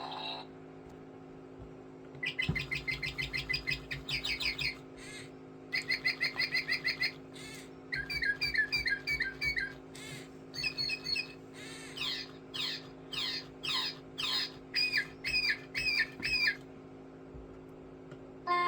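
Singing bird toy chirping and whistling in bursts of quick trills and falling whistle notes, over a steady low hum. It begins about two seconds in and stops a couple of seconds before the end.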